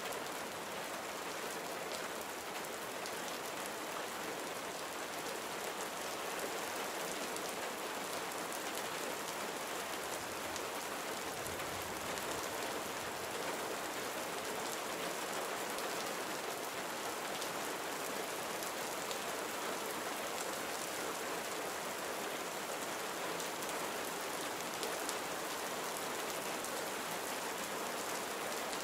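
Gentle steady rain falling on surfaces, a continuous soft hiss flecked with the patter of individual drops.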